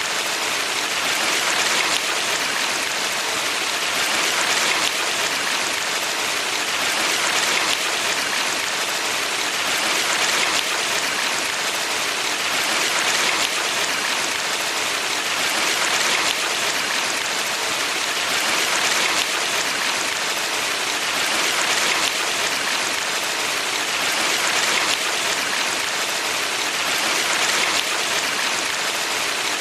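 Valley stream water rushing and splashing steadily, swelling gently about every three seconds.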